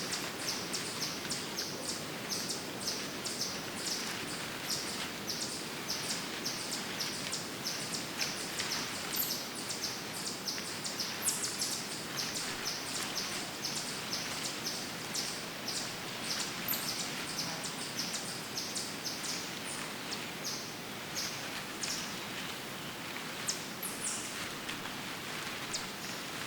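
Small songbirds chirping in quick, high, short notes, several a second, thinning out in the second half, over a steady background hiss of woodland ambience.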